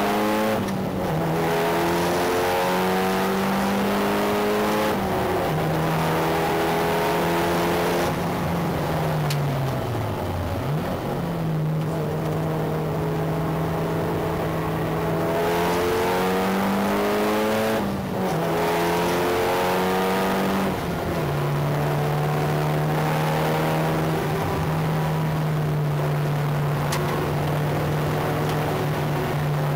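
Mitsubishi Lancer Evo VI's turbocharged 2.0-litre four-cylinder engine driven hard on track, heard from the wheel arch over tyre and wind noise. Its revs hold or climb, then drop sharply at a gear change around one, five and eighteen seconds in. About ten seconds in the revs fall away and pick up again, and they fall once more near the end.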